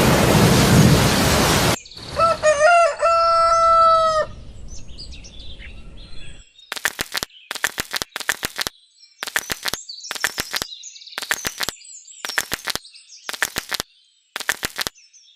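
A loud rushing noise cuts off suddenly, and a rooster crows once for about two seconds. Then come faint high bird chirps mixed with groups of sharp clicks.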